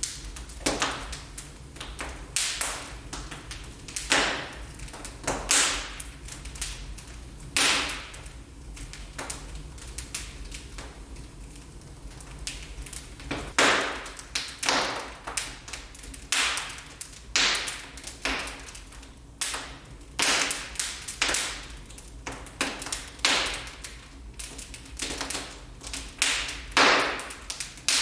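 Wood fire crackling in a fireplace: irregular sharp pops and snaps, sometimes in quick clusters, over a low steady rumble.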